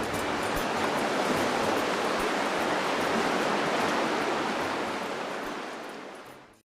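Rushing river water, a steady noise that fades out over the last couple of seconds.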